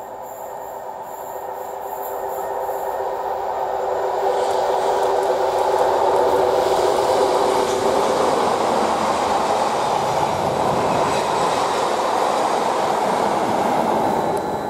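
A Class 73 electro-diesel-hauled test train passing on the rails, growing louder over the first few seconds and then holding steady as it goes by. A steady tone sounds over the first half and fades out.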